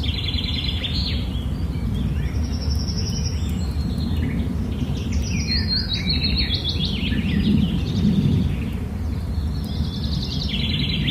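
Birds chirping in several bouts of rapid, short high notes over a steady low background rumble.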